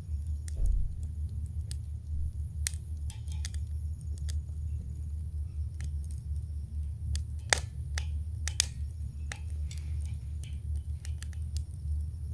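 Wood campfire crackling: irregular sharp pops and snaps, the loudest about seven and a half seconds in, over a steady low rumble.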